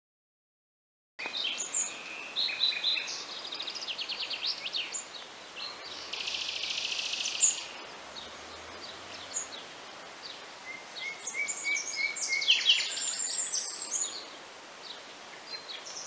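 Several small birds singing, starting just over a second in: many short high chirps and trills, with a fast, dense trill from about six to seven and a half seconds in.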